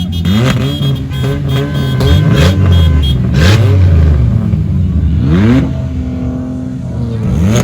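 Race car engines accelerating hard, their pitch rising again and again as they rev up through the gears. Loud throughout.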